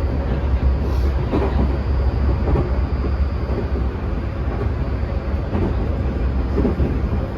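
Tokyu 2020 series commuter train running at speed, heard from inside the car: a steady low rumble of wheels on rail with scattered short knocks and a faint steady high tone.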